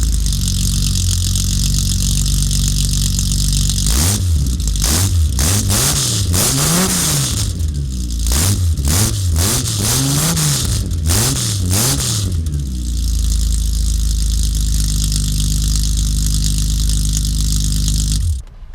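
Datsun 240z's L28 straight-six engine idling with a steady note. About four seconds in, it is revved in a string of quick throttle blips, each rising and falling in pitch, before settling back to idle for the last several seconds.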